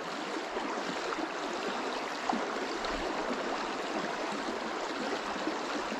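Fast water of a shallow river riffle running over rocks: a steady rushing hiss.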